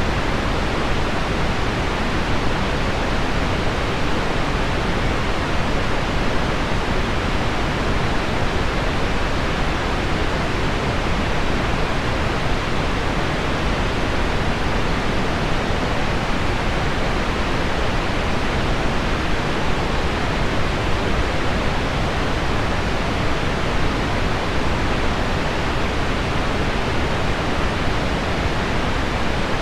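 Steady pink noise, an even rushing hiss with no breaks or changes, blended with heavy rain on window glass.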